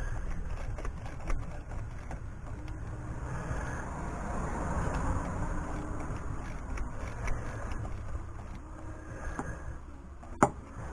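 A vehicle passing by, swelling and fading in the middle over a low steady rumble, with a few sharp clicks, the loudest one near the end.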